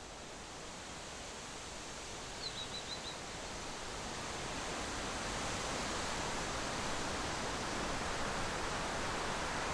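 Steady rushing noise that slowly grows louder over the first half and then holds, with a short run of four quick high chirps about two and a half seconds in.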